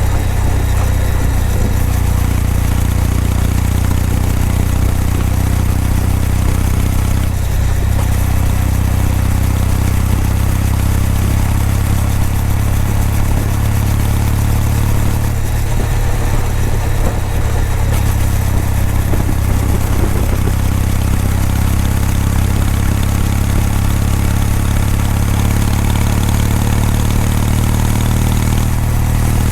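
Kawasaki W800 parallel-twin engine and exhaust running at a fairly steady engine speed, with slight changes in the note around 7 seconds and 15 seconds in.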